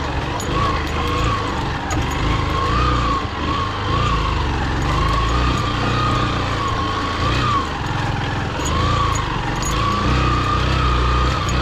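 Motorcycle engine running at low speed in low gear on rough mud, its note wavering up and down with the throttle.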